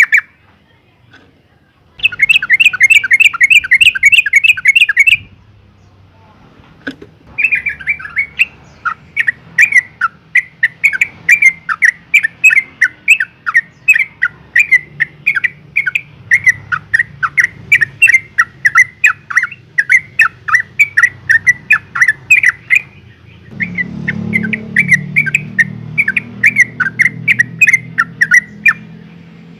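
Yellow-vented bulbul giving a long series of short, rapid chattering call notes: a quick dense run in the first few seconds, a brief pause, then a steady stream of notes for the rest of the time. The call is the one used as a lure to make other bulbuls call.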